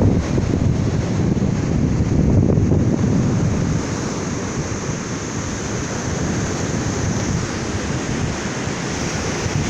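Waves breaking on a beach, with wind buffeting the microphone as a low rumble that eases a little about four seconds in.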